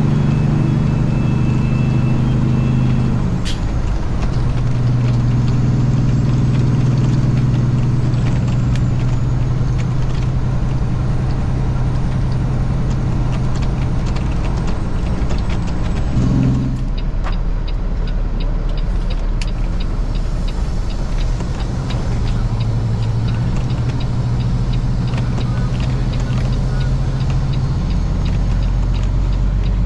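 Semi truck's diesel engine running steadily under load, heard from the cab, its pitch stepping down briefly a few seconds in and again about halfway through. A regular ticking joins in the second half.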